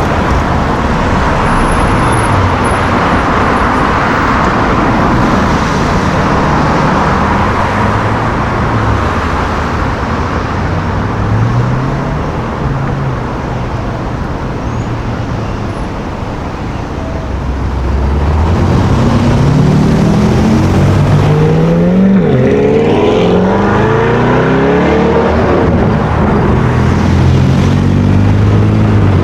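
Sports car engines in street traffic. Past the middle, one engine gets loud and revs hard, its pitch rising and falling several times as it accelerates.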